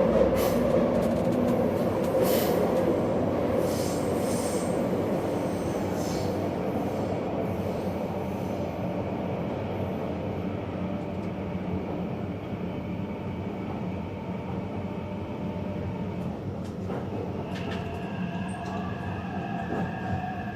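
Taipei Metro train running, heard from inside the car: a steady rumble of wheels on track that gradually grows quieter. Near the end a falling electric motor whine joins it, along with higher steady tones, as the train slows.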